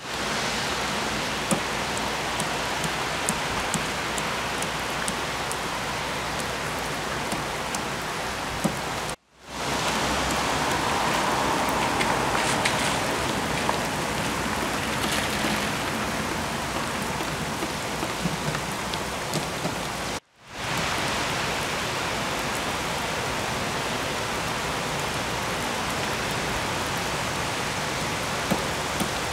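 Heavy rain pouring steadily onto wet pavement, a constant hiss with scattered faint drip ticks. It is a little louder for several seconds in the middle, and the sound cuts out briefly twice.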